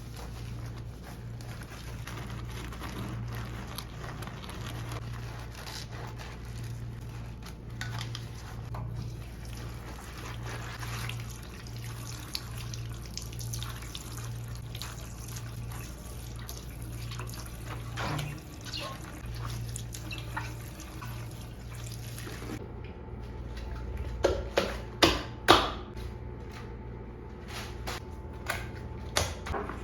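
Water running from a tap into a sink, with a steady low hum underneath. Towards the end, a few sharp knocks and clatters.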